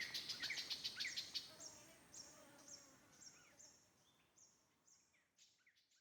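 Small birds chirping: a quick run of short high chirps, then a single high note repeated about twice a second, all fading out to silence at the end.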